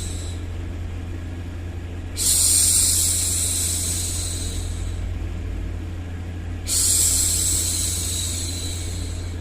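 A woman's voice making long hushing 'shhh' sounds to soothe a baby, twice, each starting suddenly and trailing off over several seconds, over a steady low background noise.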